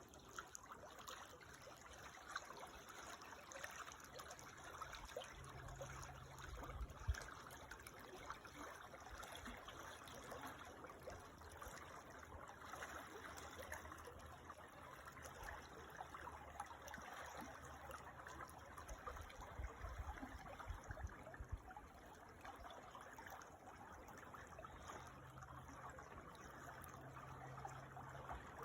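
Creek water trickling and babbling steadily, faint, with a brief low thump about seven seconds in.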